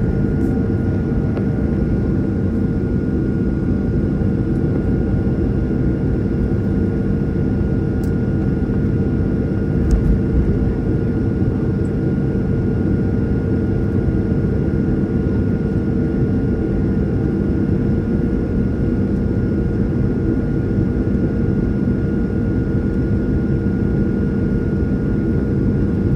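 Steady cabin drone of a jet airliner's engines running at low power while taxiing before takeoff, with a constant whine over the rumble. A brief low thump about ten seconds in.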